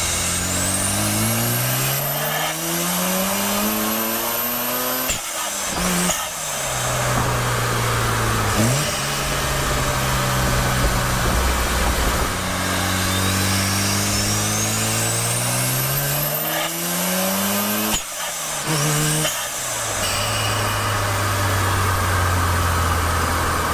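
Mazda RX-7's twin-rotor, twin-turbo Wankel rotary engine revved up twice, its pitch climbing steadily and dropping sharply when the throttle is released, with a rising turbo whistle on each climb. In between and at the end it settles back to a steady low idle.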